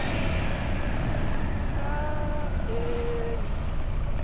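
Motorbike riding: engine and road noise under heavy wind buffeting on the camera microphone. A couple of short pitched tones sound briefly about two and three seconds in.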